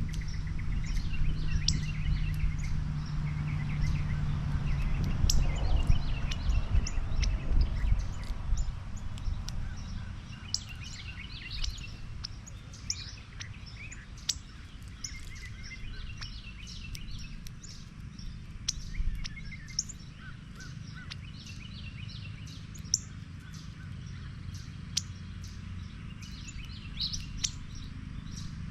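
Several wild birds calling and chirping on and off, in short, scattered notes. A low rumble under the calls during the first several seconds fades out after that.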